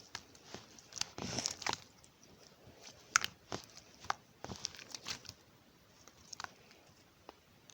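Milky white slime being squished and poked by hand: irregular sticky clicks and small popping sounds, with a denser run of squelching about a second in.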